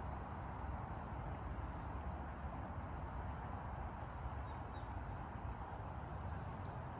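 Mountain stream flowing with a steady rush, with a few faint, short bird chirps over it.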